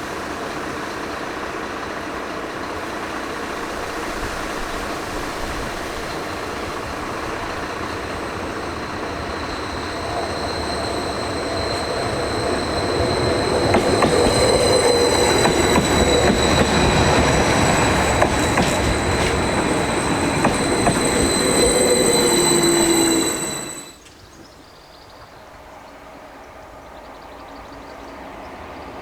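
A Class 755 bi-mode multiple unit running into the station, its rumble growing louder with a high, steady squeal joining in halfway through. The sound cuts off suddenly about 24 seconds in, and a quieter train rumble then builds.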